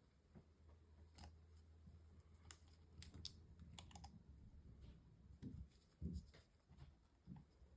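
Faint scattered clicks and taps, with a few soft low thumps later on, from hands working on a MacBook Pro laptop.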